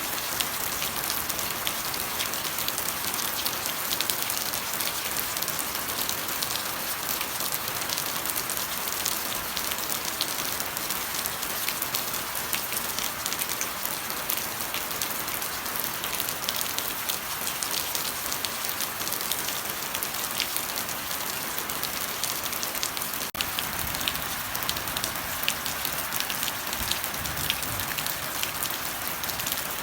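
Steady rain falling: a constant hiss with many separate drops ticking through it.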